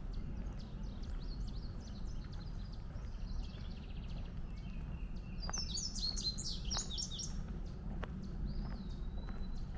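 Several wild birds singing and calling in woodland, with a loud, rapid run of high chirps about halfway through and a few long whistled notes. A steady low rumble runs underneath.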